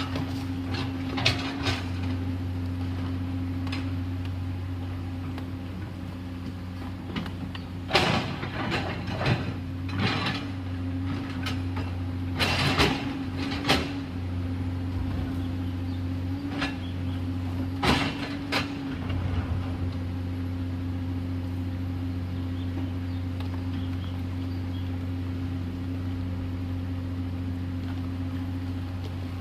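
Komatsu PC210LC excavator's diesel engine running at a steady pitch, with loud knocks and scrapes from the machine working. The knocks come in clusters: one early, then several about a quarter of the way in, just under halfway, and about two-thirds through.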